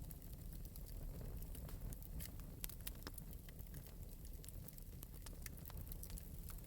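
Wood fire burning in an open metal fireplace, with many small irregular crackles and pops over a low steady rumble.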